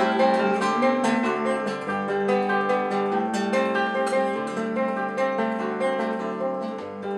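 Acoustic guitar playing the closing instrumental bars of a bard song after the last sung line, a quick run of picked notes.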